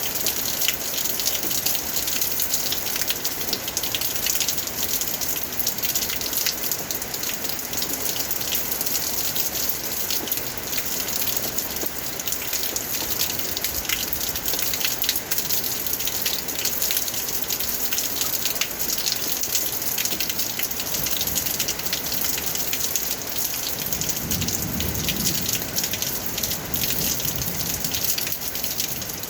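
Steady rain, a dense patter of drops over a constant rushing hiss. From about 24 to 28 seconds in, a low rumble sounds under it.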